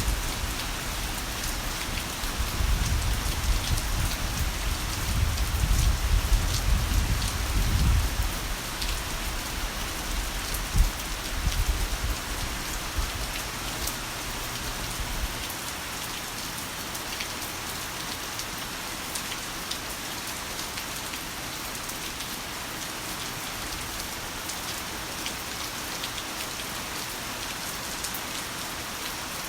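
Heavy rain falling steadily, with rolling thunder rumbling low over the first half and dying away about halfway through. One brief sharp jolt in the rumble comes about a third of the way in.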